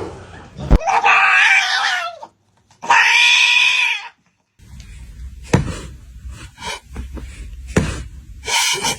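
A cat yowling twice, each call drawn out for about a second with a short break between. A few sharp knocks and some rustling follow.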